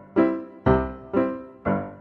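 Background music: keyboard notes with a piano sound, struck evenly about twice a second, each ringing and then fading.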